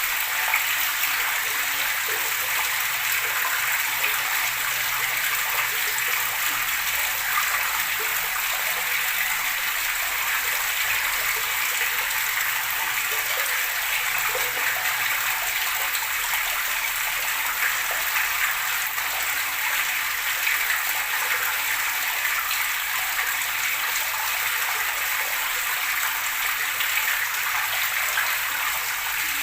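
Running, babbling water, a steady even splashing hiss with no breaks.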